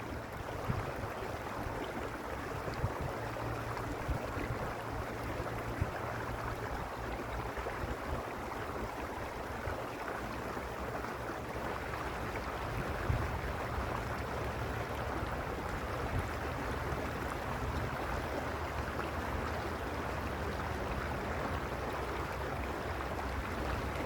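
Mountain stream flowing steadily over stones, an even rushing of water with a brief low rumble about halfway through.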